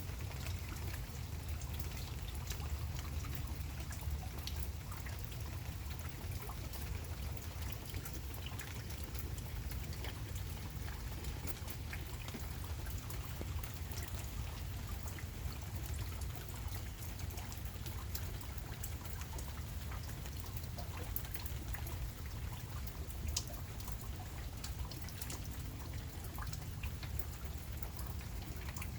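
Steady rain falling, with many separate drops heard as sharp ticks over an even hiss and a steady low rumble underneath.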